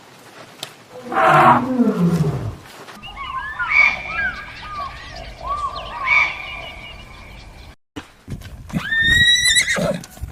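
A series of separate animal calls. First comes a loud call that falls steeply in pitch, then several seconds of quick high chirps, and near the end a horse whinnying with a high, wavering cry.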